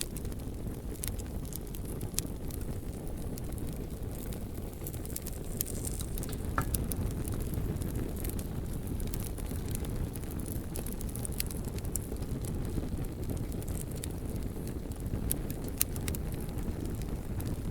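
Bonfire of burning logs crackling: a steady low rumble of flames with scattered sharp pops and snaps throughout.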